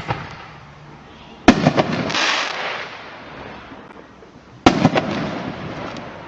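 Two aerial firework shells bursting, one about a second and a half in and one near the two-thirds mark, each a sharp bang followed by a fading crackle. The sound is played back from a store's product demonstration video.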